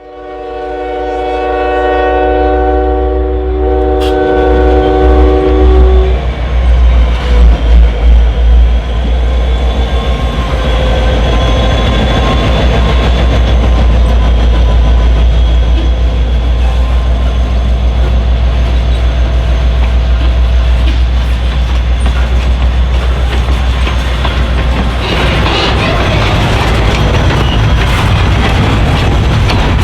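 Diesel freight locomotive sounding a long multi-tone air horn blast of about five seconds. The train then runs past with a loud, low engine rumble and the rolling noise of freight cars, which turns hissier near the end.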